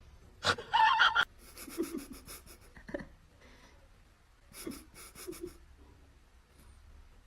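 A pet breathing in quick, noisy puffs, in two short runs, with a sharp click about half a second in.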